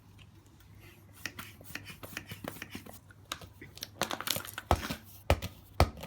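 Hands working a punctured football to spread PVA glue injected inside it: scuffing and crinkling handling noise, then from about two-thirds of the way in a run of heavy thumps, about two a second, as the ball is knocked about.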